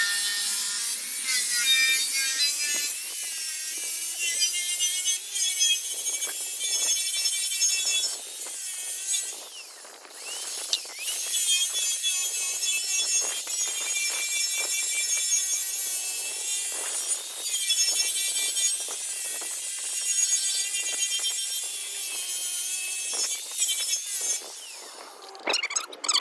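Rotary buffer running a flannel polishing pad over metal: continuous rubbing with high squealing tones that waver in pitch. It dips briefly midway and again near the end.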